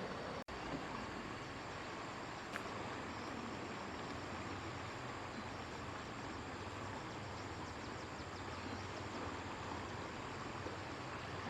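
Steady rushing noise with a faint low hum, broken by a brief dropout about half a second in and a single sharp click about two and a half seconds in.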